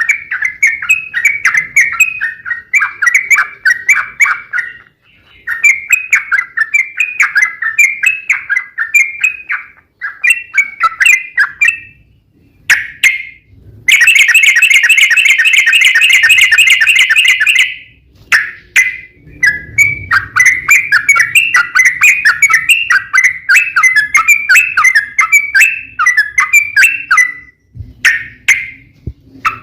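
Yellow-vented bulbul (trucuk) singing long rapid chattering phrases of bubbly notes, broken by short pauses, with one louder unbroken run of about four seconds midway: the 'ropel panjang' song used as a lure to set other trucuk birds singing.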